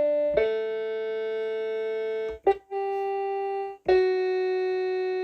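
Instrumental intro of a pop ballad played on an electronic keyboard: sustained chords, each held steady without fading, changing three times with brief dips between them.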